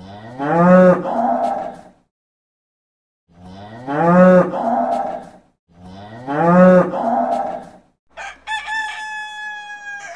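Three long, deep bovine moos, each rising in pitch at its start, followed about eight seconds in by a rooster crowing once.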